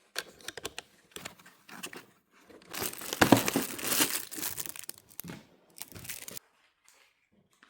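Plastic packaging crinkling and tearing as accessories are unwrapped by hand, in irregular rustles and crackles, loudest about halfway through and stopping shortly before the end.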